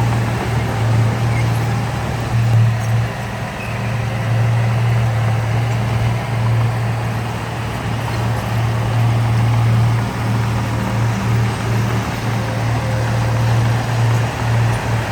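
Heavy diesel engine of earthmoving machinery running steadily under load with a deep, even drone.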